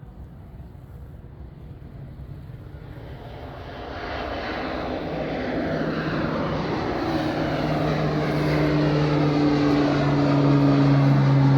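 Pilatus PC-12 single-engine turboprop (Pratt & Whitney PT6A) at takeoff power, a propeller drone swelling steadily louder as it approaches. Near the end its steady low tones sink slightly in pitch as it passes.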